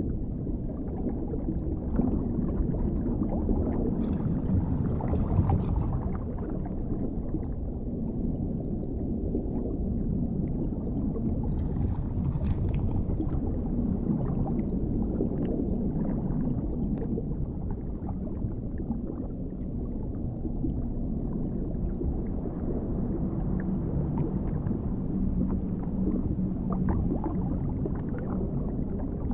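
Underwater ambience: a steady, muffled low rumble with gurgling and scattered faint crackles.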